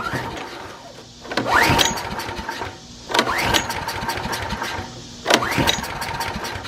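A portable generator's small engine being pull-started with the choke on: three pulls about two seconds apart, each a quick rising whir after which the engine fires and runs for a second or so, then dies away. The freshly cleaned carburetor is just starting to let it fire.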